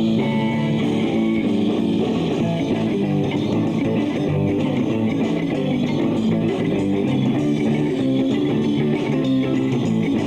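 Live rock band playing: strummed guitars over electric bass.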